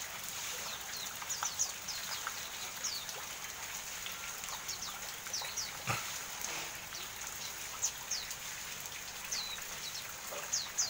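Pleci auri white-eye (Zosterops) calling in short, high, falling chirps, scattered and repeated, over a steady patter of rain. A single knock sounds about six seconds in.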